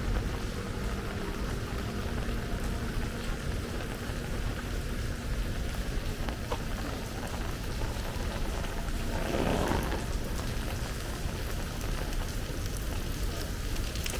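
Heavy rain falling steadily, with a brief louder rush of noise about nine and a half seconds in.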